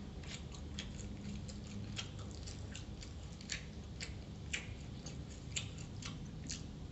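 Chewing and biting crispy fried food, with irregular crisp crunches and mouth clicks; a few louder crunches fall about a second apart in the second half. A low steady room hum runs underneath.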